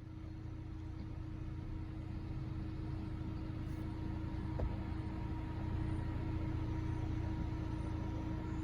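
A car driving along, a steady low rumble of engine and road noise with a faint steady hum over it.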